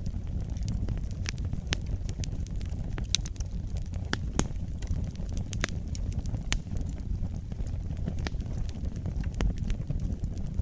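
Fire burning in a fireplace: a steady low rumble with frequent irregular sharp crackles and pops.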